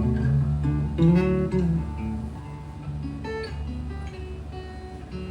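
Acoustic guitar playing an instrumental passage of the song, strummed chords with picked notes. The loudest chord comes about a second in and rings down, followed by lighter notes.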